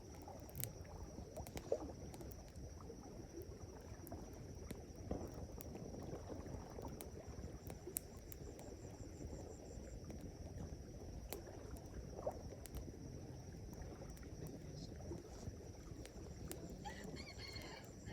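Campfire burning with a low steady rush and scattered sharp crackles and pops at irregular times. A short bird call comes near the end.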